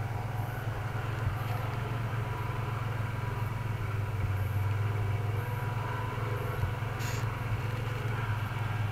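Nissan 300ZX V6 engine idling steadily, with a faint steady whine and a light high tick about once a second from the accessory drive. The owner takes it for a worn bearing in the alternator, power steering pump, air-conditioning compressor or idler pulley.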